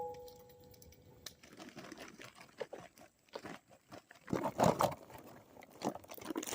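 The ringing of a struck piece of metal dies away, then light, scattered crunching and rustling noises follow, a cluster of them about four to five seconds in.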